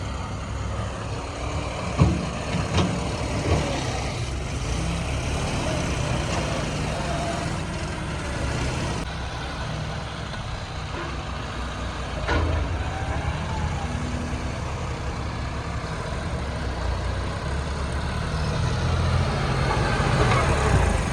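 Heavy diesel engines of earthmoving machinery and trucks running steadily, with a few sharp knocks, three of them close together a couple of seconds in and another about twelve seconds in.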